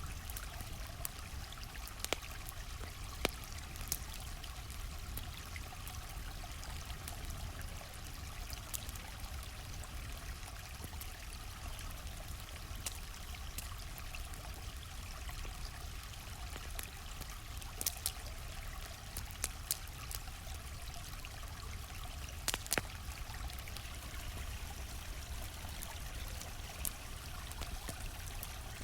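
Steady rushing of a flowing stream, with scattered sharp pops and snaps of a crackling campfire over it.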